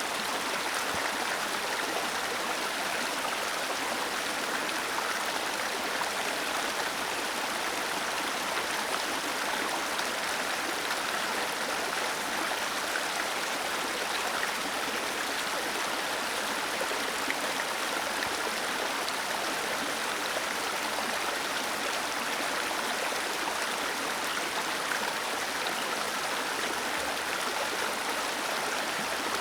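Small waterfall cascading over rocks into a stream: a steady, even rush of falling water.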